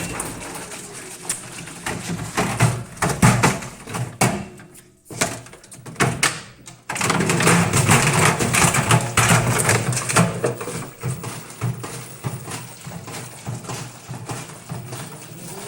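Washing machine running with a large plastic bottle in the drum: rapid knocking and rattling. It nearly drops out about five seconds in, then comes back as a louder, dense clatter.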